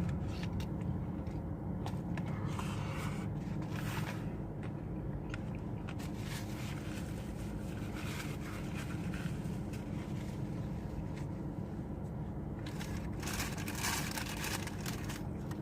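Close chewing and crunching of fast food, with scattered crackles and the crinkle of a paper wrapper, over a steady low hum.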